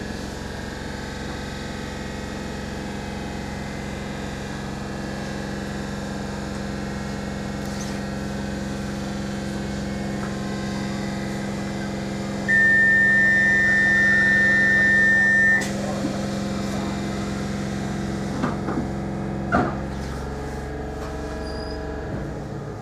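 A Class 313 electric multiple unit standing at a platform, a steady hum from its onboard equipment heard inside the carriage. About halfway through, a loud steady high tone sounds for about three seconds, the door-closing warning, followed by two short knocks.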